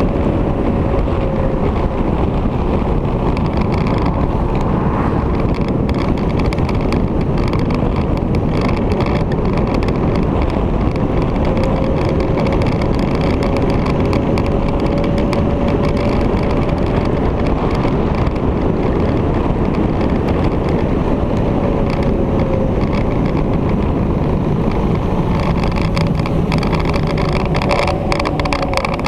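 Victory motorcycle riding at road speed: a steady engine drone under heavy wind rushing over the microphone, with a faint tone that drifts a little in pitch and a tone that falls near the end.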